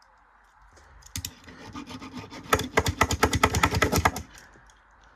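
Year-2000 Bridgestone Altus Newing washing machine during its wash: a burst of rapid rattling clicks about three seconds long that builds up and then stops abruptly.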